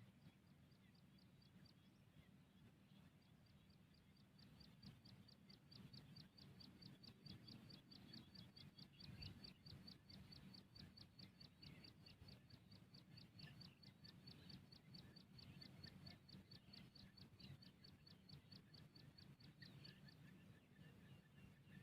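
Faint evening nature sounds: a small animal's short, high chirps repeated fast and evenly, about five a second, pausing near the end, over a low hum.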